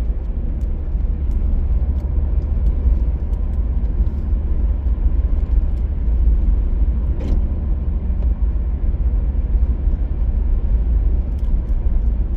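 Car driving along a hill road: a steady low rumble of engine and tyre noise.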